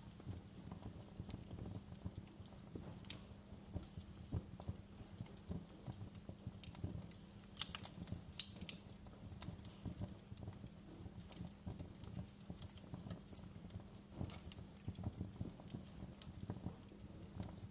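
Wood fire crackling: irregular sharp pops and snaps over a low, steady rumble, with a few louder pops about three seconds in and again around eight seconds.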